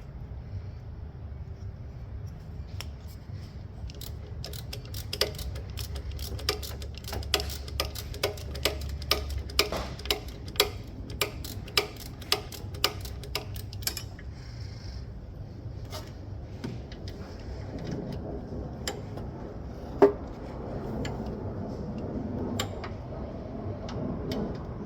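Ratchet wrench clicking as a bolt is worked loose: a run of sharp clicks, about two or three a second, for roughly ten seconds, then scattered clicks and one loud metallic knock about twenty seconds in.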